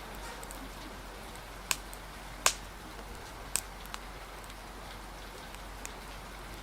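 Wood fire crackling: a few sharp, separate pops, the loudest about two and a half seconds in, over a steady hiss of rain.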